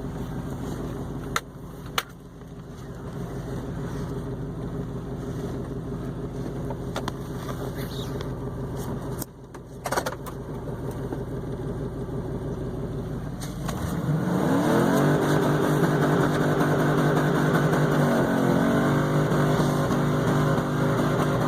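Suburban's 5.3-litre V8 running steadily at low revs with a few knocks, then about 14 seconds in revving up sharply and holding high rpm, much louder, with a brief dip and recovery a few seconds later, as it is driven toward the rev limiter in two-wheel drive.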